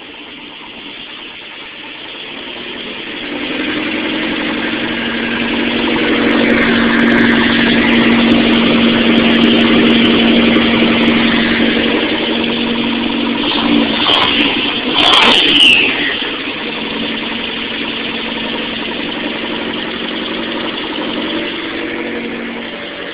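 The turbocharged 2.5-litre four-cylinder engine of a 1989 Plymouth Voyager running on its first run after an engine swap. The revs climb over the first few seconds and are held up, with two quick blips and a falling whine about a third of the way from the end, then it settles to a steady idle.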